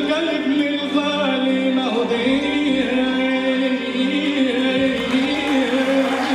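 A choir singing an Arabic song with instrumental accompaniment, the voices holding long, slowly bending notes.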